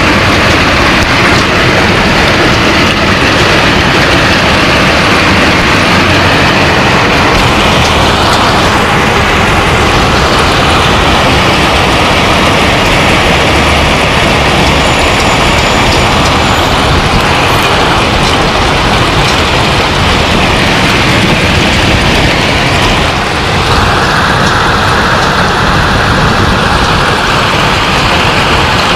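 Heavy hail pelting down: a loud, dense, steady clatter of countless hailstone impacts.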